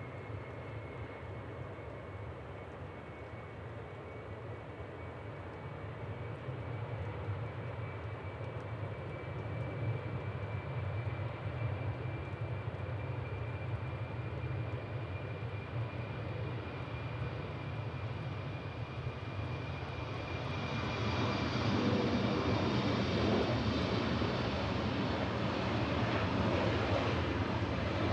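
A jet airliner's engines running, with a steady high whine over a low rumble. The sound grows gradually louder as the aircraft comes closer, and swells further in the last third.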